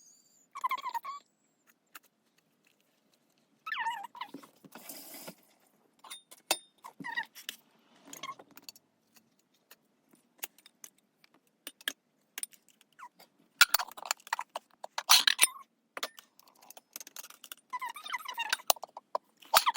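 Kitchen handling sounds: scattered clinks, taps and scrapes of utensils and containers, with a busier stretch of clatter about two-thirds of the way in and a few short squeaks.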